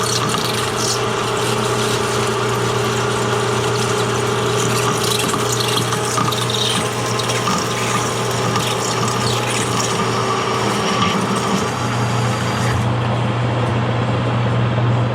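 Metal lathe running while a boring bar cuts into an aluminium workpiece to enlarge the bore: a steady motor hum under a hissing cutting noise. Near the end the hiss drops away while the hum continues.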